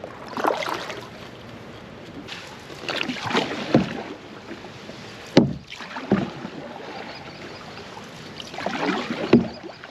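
Canoe paddle strokes splashing in the water, coming every few seconds, with a sharp knock, like the paddle striking the hull, about five seconds in.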